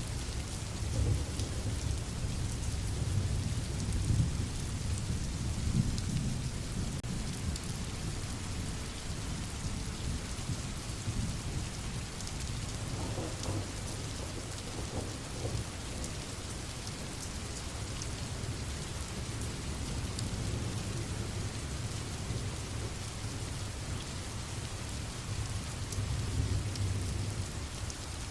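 Steady rain falling with a low rolling rumble of thunder, the rumble strongest in the first few seconds and swelling again near the end.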